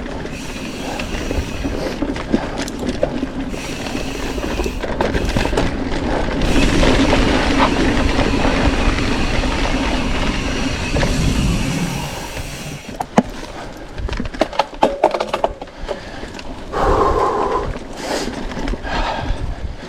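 Mountain bike rolling along a dirt forest trail: continuous tyre and wind noise that swells for several seconds in the middle, then sharp clicks and rattles from the bike over rougher ground.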